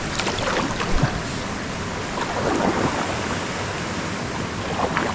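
Steady rush of falling water from a waterfall, with a few short splashes or scrapes a little way in, midway and near the end.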